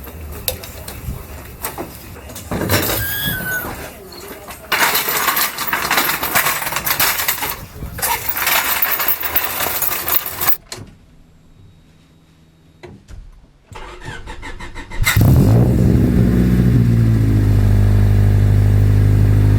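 Honda Civic engine starting about fifteen seconds in and settling into a steady idle through an aftermarket N1 axle-back exhaust with a test pipe in place of the catalytic converter. Before that come several seconds of loud, irregular handling noise and a quieter pause.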